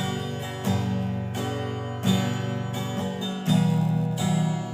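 Acoustic guitar strummed, about five chords struck at uneven intervals, each left to ring.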